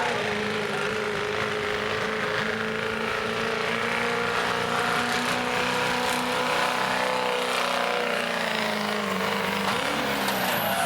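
Diesel pickup truck engine running hard under load, pulling a sled, at a nearly steady pitch that sags slowly over the run.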